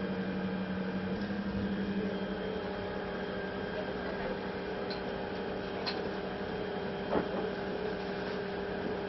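Steady mechanical hum with a constant low tone and a second tone above it, with a few faint clicks near the middle.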